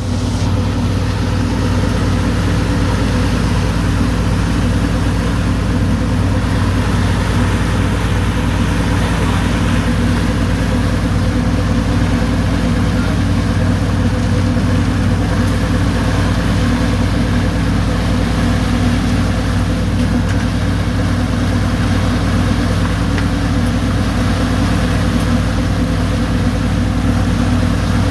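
Boat engine running steadily at an unchanging pitch, a loud low drone.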